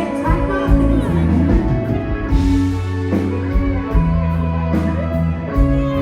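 Live band music, loud, with electric guitar, a heavy bass line and a steady beat, and some singing.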